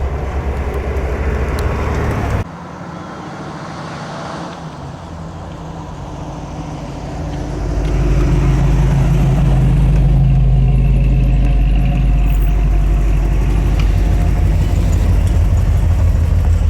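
Car engines running at low speed as cars arrive. One engine's steady low rumble cuts off abruptly about two seconds in. After a quieter stretch, another engine grows louder from about seven seconds in and stays loud and steady.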